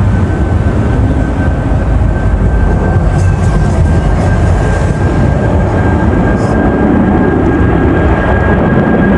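Jet airliner passing close at low altitude: loud, steady engine noise, heaviest in the low end, with a thin high whine held throughout.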